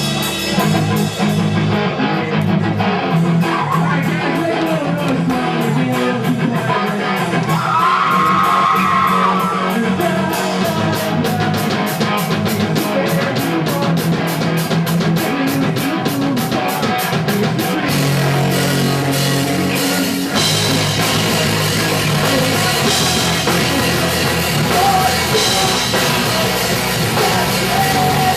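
Punk rock band playing live and loud: electric guitars and drum kit with a singer. The drums play a fast, even beat through the middle, and the song shifts to a new section about two thirds of the way in.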